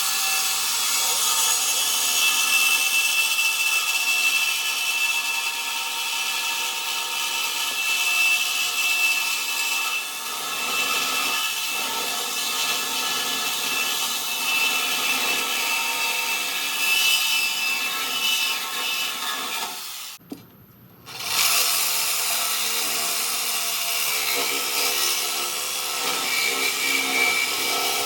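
Power tool cutting through the welds of a steel go-kart frame, running steadily with a high whine over a hiss; it stops for about a second some twenty seconds in, then starts again.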